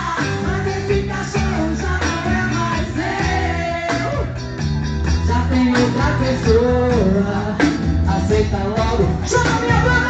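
Live band music: an upbeat song with a steady bass beat and shifting melodic lead lines.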